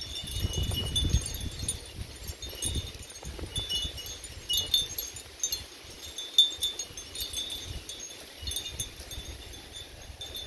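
Metal wind chimes ringing irregularly in gusty wind, many overlapping high strikes at no set rhythm. A low rumble of wind on the microphone in the first second or so.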